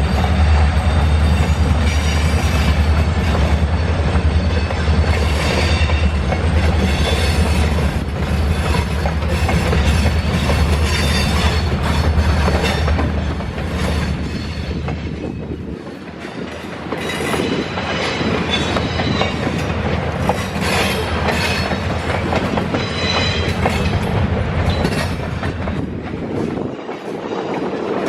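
Freight train cars rolling past on the rails, with wheels clacking over rail joints and some wheel squeal. A deep low drone runs under it for roughly the first half and stops about sixteen seconds in, leaving the rolling cars.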